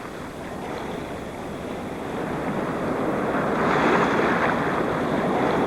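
Ocean water rushing and surging like surf, swelling to its loudest a little past the middle and then easing slightly.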